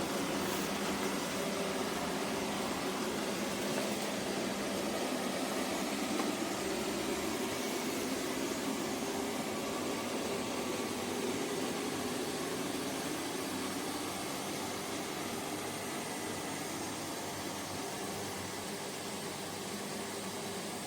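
Steady hum and hiss of a running machine, fan-like and unchanging, easing off slightly near the end.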